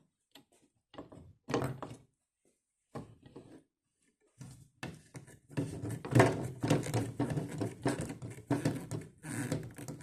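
Irregular knocks and thumps from handling or working hard objects: a few scattered ones, then a dense, busier run from about halfway through.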